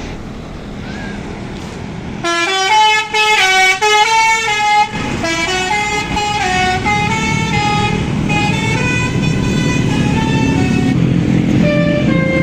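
Bus basuri (telolet) musical horn playing a tune of stepping, shifting tones, starting about two seconds in over road noise.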